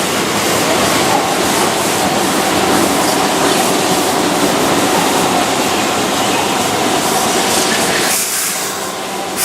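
Keihan 2600-series electric train running on the rails with a steady noise of wheels and rails. The sound drops off about eight seconds in.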